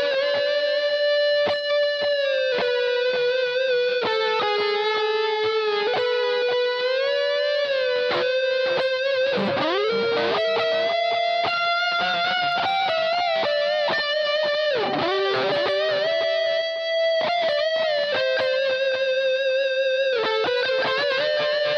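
Jackson RRV electric guitar played through a Boss GT-8 multi-effects processor: a single-note lead line of long sustained notes with pitch bends, and a swooping drop in pitch about nine seconds in.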